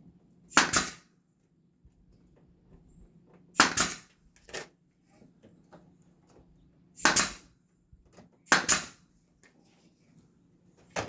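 Nail gun driving nails into wood: four sharp shots a few seconds apart, with a weaker one just after the second.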